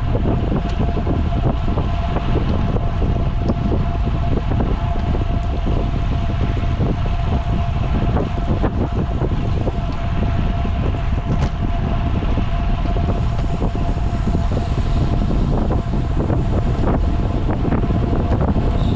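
Wind buffeting the microphone of a camera carried on a moving bicycle, a loud steady low rush, with a thin steady whine running through much of it.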